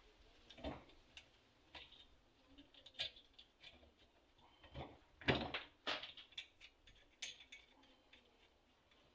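Irregular light clicks and knocks of small parts or tools being handled, a dozen or so scattered through, with the loudest cluster about five seconds in.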